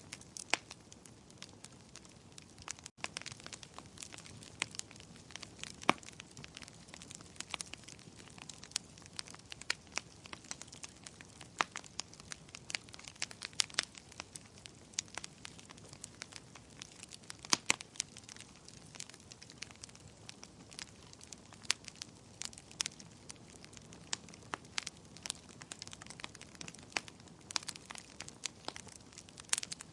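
Wood fire burning, with frequent sharp, irregular crackles and pops over a soft steady hiss.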